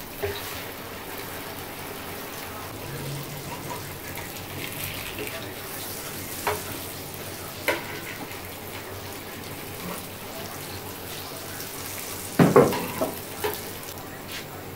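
Vegetable omelette batter sizzling as it fries in oil in a nonstick pan, with a few knocks of a ladle and metal spatula against the pan. The loudest clatter comes about twelve seconds in as the patties are turned.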